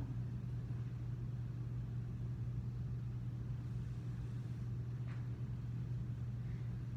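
A steady low hum runs unchanged throughout, with one faint click about five seconds in.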